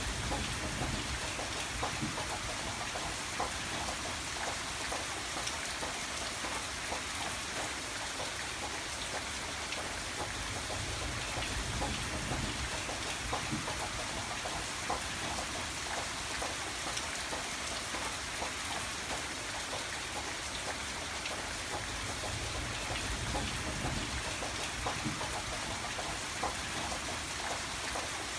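Steady rain with a dense patter of individual drops, and a low rumble that swells and fades now and then.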